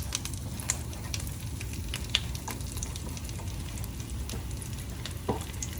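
Flatbread toasting in a frying pan of butter and oil, sizzling steadily with scattered small pops and crackles.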